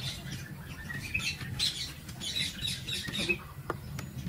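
Small birds chirping: many short, high-pitched chirps and squeaks, over a low steady hum.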